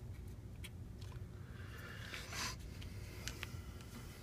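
Faint handling noises from working on a smartphone's plastic housing by hand: a few light clicks and a short scraping rustle about two seconds in, over a low steady hum.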